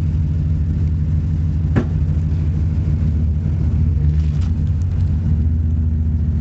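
Chevy pickup truck engine running steadily with a low rumble while pulling out a stuck truck, with one sharp click a little under two seconds in.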